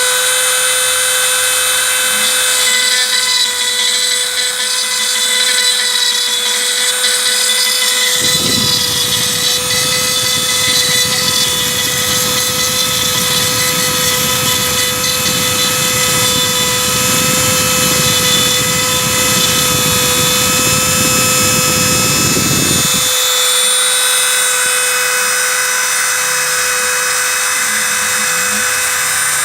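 Homemade CNC router's spindle whining steadily at one pitch as its cutter machines a 3 mm aluminium plate dry, without coolant or lubrication. From about eight seconds in until about twenty-three seconds, a rougher, lower cutting noise joins the whine, then drops away.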